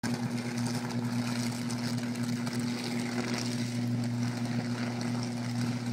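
Downed power line arcing where it lies on the street: a steady low electrical buzz with a crackling hiss over it.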